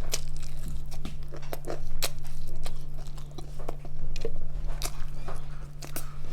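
Close-up biting and chewing of crispy Jollibee Chickenjoy fried chicken dipped in gravy, with irregular crunches from the breading and wet chewing.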